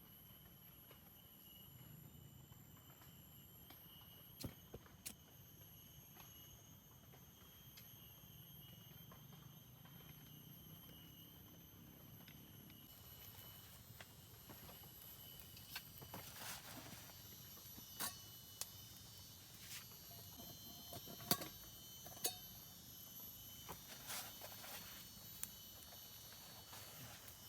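Faint steady high-pitched insect calls, with scattered light clicks and knocks that come more often from about halfway through.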